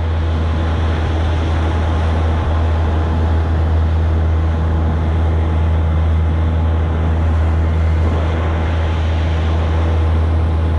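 Outboard motor on an inflatable boat running at a steady cruising speed, a constant low drone that holds its pitch throughout.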